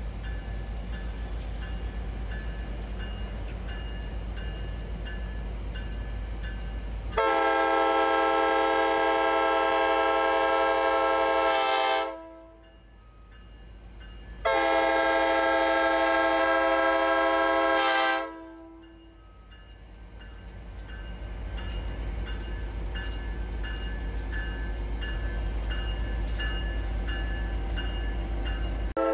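Grand Canyon Railway locomotive departing: a steady low engine rumble, then two long blasts of its chord horn, each several seconds, the usual signal that the train is about to move off. Afterwards the engine rumble grows as the train gets under way.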